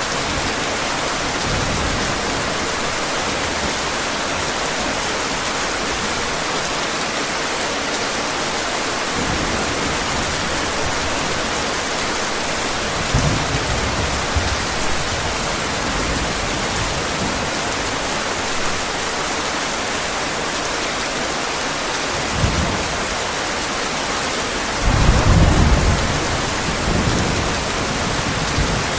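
Heavy steady rain hissing, with low thunder rumbling in several swells, the longest and loudest about three-quarters of the way through.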